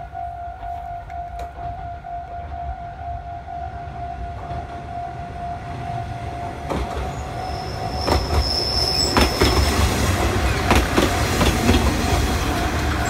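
Aizu Railway diesel railcar approaching and passing close by. Its engine rumble and the clatter of wheels over rail joints grow louder about two-thirds of the way in, with a brief high wheel squeal, all over a steady high tone.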